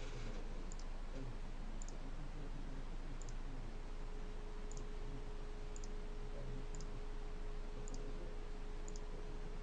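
Steady background hiss with a faint hum, and faint short double clicks about once a second.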